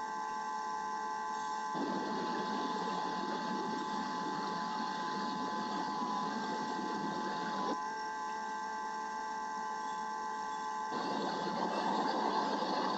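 Bald eagle nest-cam microphone audio: a steady high electrical whine, with a rough crackling noise of storm rain on the nest and microphone that sets in about two seconds in, drops away for a few seconds, and returns near the end.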